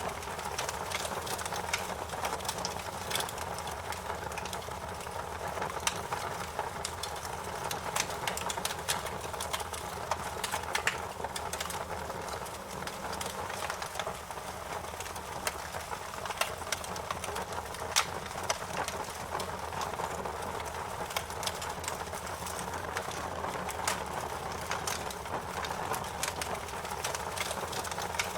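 Wood fire crackling in a fireplace: irregular sharp pops and snaps over a steady hiss, with one louder pop about two-thirds of the way through.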